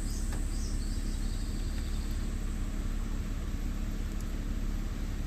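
A vehicle's engine idling as a steady low rumble, with a constant high insect drone over it and a few faint high chirps in the first two seconds.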